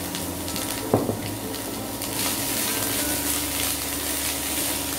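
Chopped onion, spring onion and ginger-garlic paste sizzling in oil in a nonstick kadai while a silicone spatula stirs them, with a single knock about a second in. The sizzle grows a little louder from about two seconds in.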